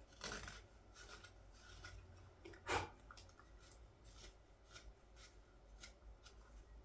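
Knife shaving green wood in short, faint strokes, about two a second, with one louder cut a little under three seconds in.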